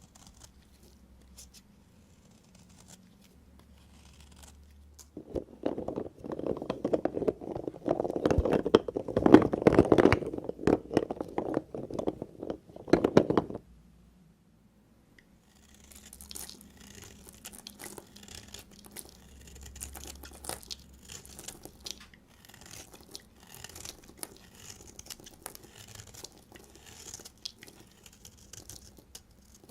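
Knife cutting through bars of soap: a loud, dense crunching crackle from about five seconds in until just past the middle, then, after a brief pause, lighter and crisper crackling cuts.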